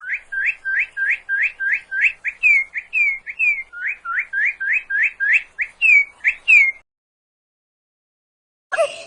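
A bird singing a fast run of short, clear whistled notes, each sliding upward, about four a second, with a few downward-sliding notes mixed in midway and near the end. The song stops after about seven seconds.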